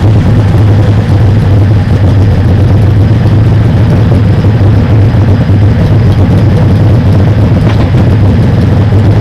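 Competition pulling tractor's engine running at high power under load, a very loud steady drone with no let-up.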